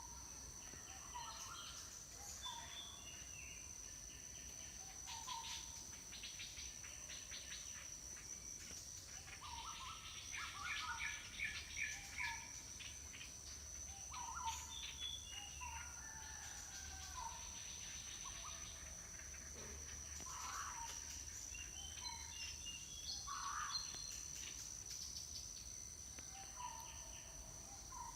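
Birds calling and chirping: short repeated calls every few seconds and bursts of quick chirps, busiest around the middle, over a steady high-pitched insect drone.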